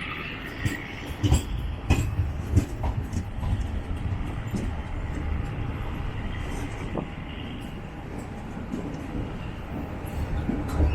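A passenger train running on the track: a steady low rumble with irregular wheel knocks over rail joints, most of them in the first few seconds.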